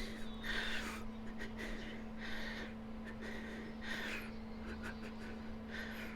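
Quiet room tone: a steady low hum, with short faint hissy noises at irregular intervals, roughly one every second.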